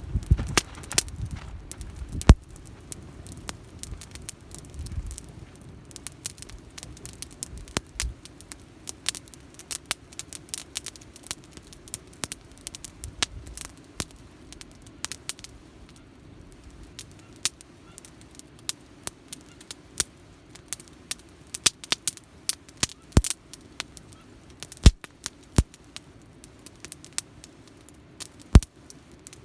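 Wood campfire in a Picogrill folding fire pit crackling, with irregular sharp pops and snaps, several of them loud, over a soft steady burn.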